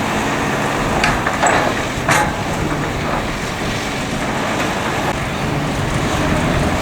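Heavy construction machinery, likely an excavator's diesel engine, running steadily, with a few sharp clanks in the first half.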